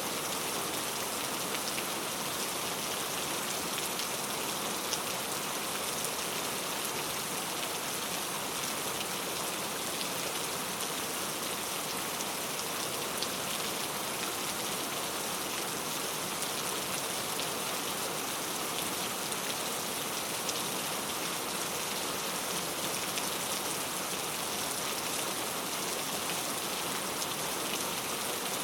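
Steady heavy rainfall: an even hiss of rain with scattered individual drop ticks, holding constant throughout.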